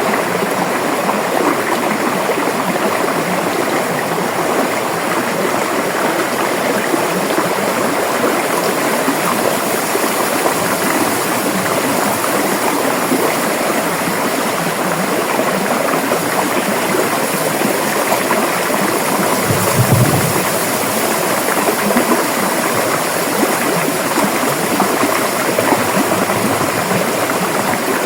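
River water flowing in a steady, dense rush. About two-thirds of the way through comes one brief low thump.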